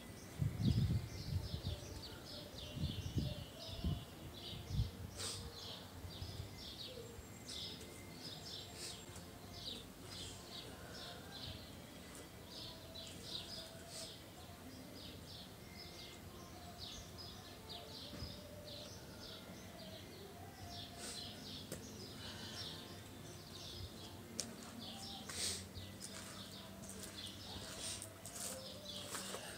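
Small birds chirping in quick, short, repeated notes throughout, over a faint steady outdoor background. A few low thumps come in the first few seconds.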